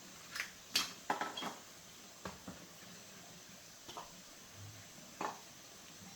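A series of light clinks and knocks from hard objects being handled, a quick cluster in the first second and a half, then single knocks spread out to near the end.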